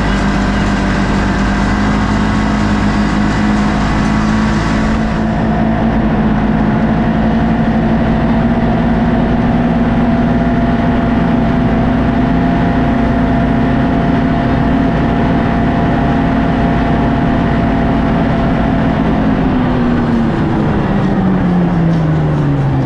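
Vehicle engine running steadily while driving. Over the last few seconds its pitch falls, as the engine slows.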